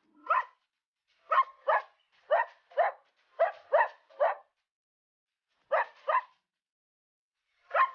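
Dog barking: about ten short barks in quick pairs and threes, with a pause of over a second partway through.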